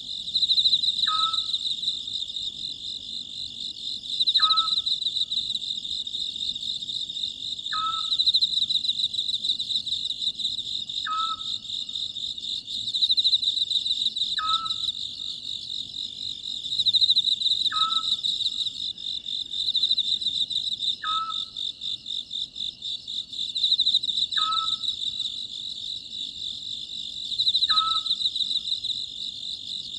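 Oriental scops owl calling, a short two-part hoot repeated evenly about every three seconds, nine times. Behind it, insects keep up a steady, high, pulsing chirr.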